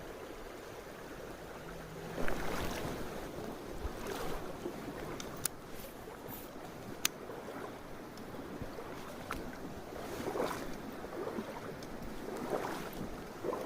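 Mountain stream water rushing steadily, swelling louder every few seconds, with a few sharp clicks.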